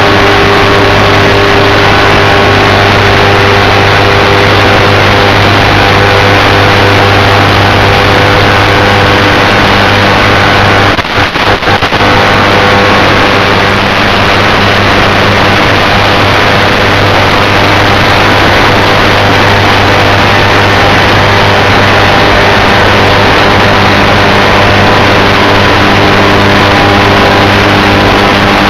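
Electric motor and propeller of an FPV aircraft running at a steady, constant pitch under an even rush of wind noise, loud and close as if picked up on board. It stutters briefly about eleven seconds in.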